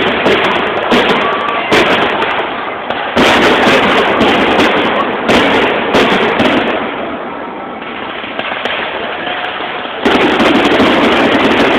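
Aerial fireworks bursting: a string of sharp bangs over a dense crackle through the first seven seconds. About ten seconds in, the sound jumps to a louder, sustained barrage.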